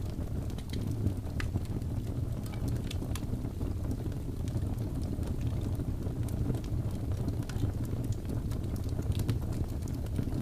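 Wood fire burning in a fireplace: a steady low rumble of flames with irregular sharp crackles and pops from the logs scattered throughout.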